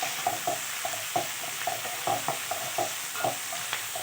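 Onions, garlic and whole spices sizzling in hot oil in a kadai, with a spatula stirring and clinking against the pan several times a second in irregular strokes.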